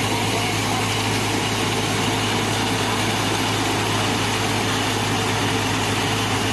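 Concrete mixer truck's diesel engine running steadily at a constant pitch.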